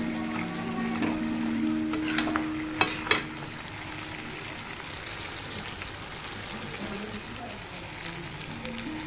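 Pork pieces sizzling in a black kadai as a steel spatula stirs them, with a few sharp scrapes and knocks of the spatula against the pan about two to three seconds in. Background music plays over the first few seconds and comes back near the end.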